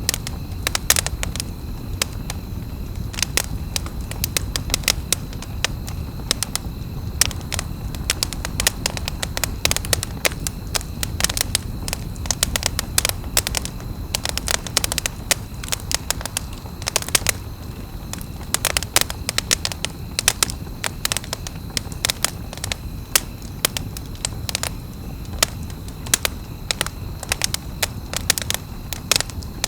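Campfire burning, the wood crackling and popping in quick irregular snaps over a steady low rumble.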